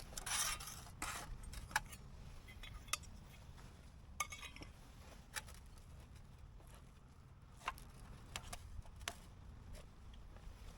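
Camp cookware and utensils being handled: scattered light clinks and taps of metal, with a rustle near the start.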